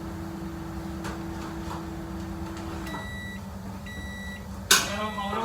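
A kitchen appliance's running hum cuts off about three seconds in, followed by two short high beeps, the pattern of an appliance finishing its cycle. A sharp clatter comes near the end, over a steady low kitchen hum.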